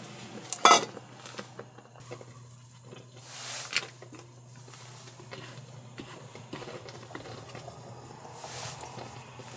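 Quiet cooking sounds from pan and utensils: a sharp clack just under a second in, then light taps and two soft swells of hissing.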